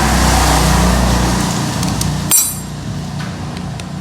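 Steady hum and hiss, then one sharp metallic clink with a brief ringing a little over two seconds in, as a metal tool or starter-motor part is knocked during disassembly.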